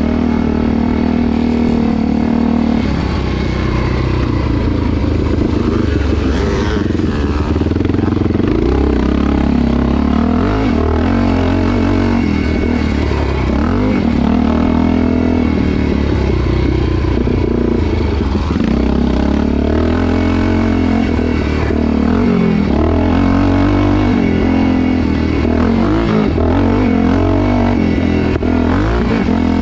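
Motocross motorcycle engine racing on the track, its pitch rising and falling over and over as the throttle is opened and eased off.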